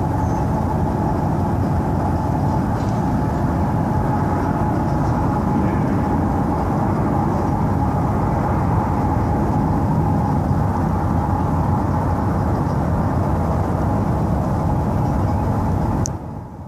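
A loud, steady low rumbling drone with a faint, steady hum-like tone above it, cut off abruptly near the end.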